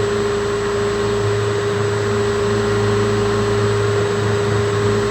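Electric drill running steadily, boring a hole into a tree-branch perch, a constant motor whine under the noise of the bit cutting wood.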